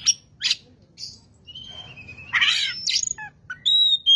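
Oriental magpie-robin singing: a varied run of clear held whistles, sharp chirps and quick pitch glides, with a short pause about a second in and a loud burst of notes in the second half.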